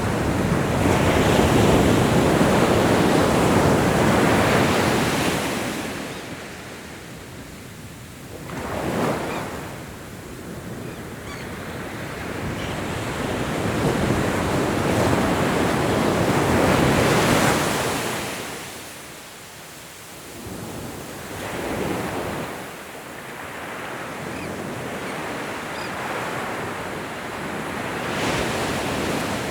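Ocean waves breaking and washing up the shore, swelling to loud surges every several seconds and ebbing between them.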